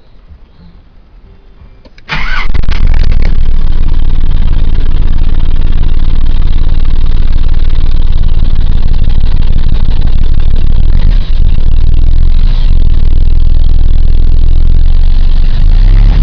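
1998 Nissan Eagle pickup truck's engine cranking and catching about two seconds in, then running steadily and loud.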